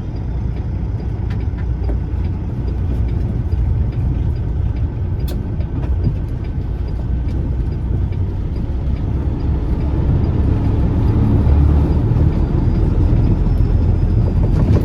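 Peterbilt semi truck heard from inside the cab, its diesel engine running and its tyres on a gravel road, with scattered short clicks and rattles. The rumble grows a little louder about two-thirds of the way through.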